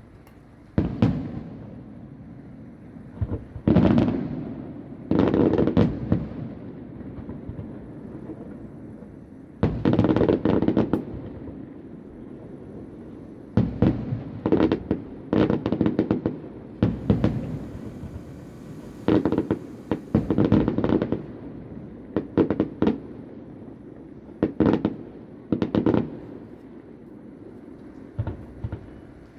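Aerial fireworks bursting at a distance: repeated sharp bangs, some single and some in quick volleys, each with a rumbling echo, and a crackling rain of sparks around the middle.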